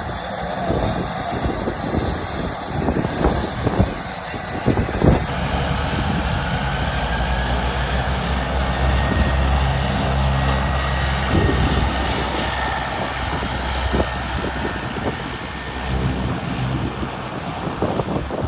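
Propeller airplane's engines running at the airstrip, the drone swelling to its loudest about halfway through and then easing off.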